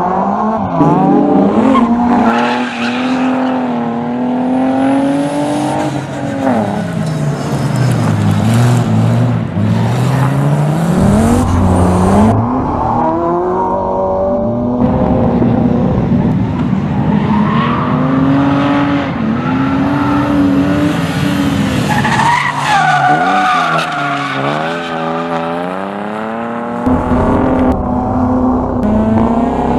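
A rally car's engine revving hard, its pitch climbing and dropping over and over as it is driven through the gears, with tyres skidding.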